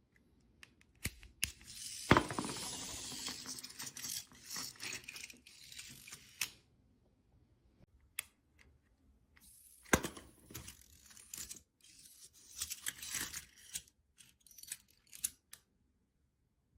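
Small hard parts clicking, knocking and rattling as they are handled, with a hissing noise for the first few seconds and sharp knocks about two and ten seconds in.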